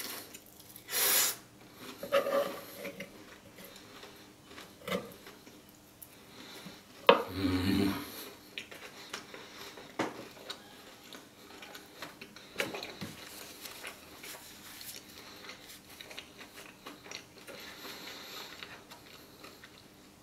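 Close-miked chewing of a big mouthful of Nutella-covered waffle: soft, irregular wet mouth smacks and clicks, with a few louder bursts about one, two and seven seconds in.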